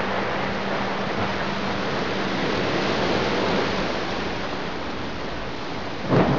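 Heavy rain and hail drumming on a pickup truck's body as a steady hiss, with a sudden loud burst near the end.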